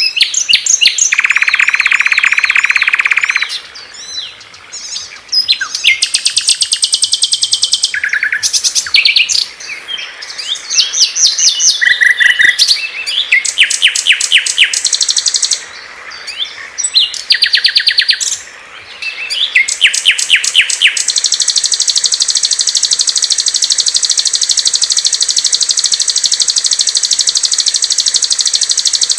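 A string of different small songbirds singing loud, clear songs one after another: short bouts of rapid, high repeated-note trills and chirps, a dense buzzy trill about a second in, and a long, even, very fast high trill in the last third.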